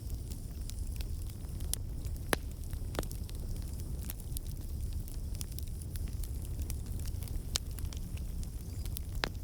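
Campfire burning: a steady low rumble of flames with irregular sharp crackles and pops of burning wood, a few of them louder.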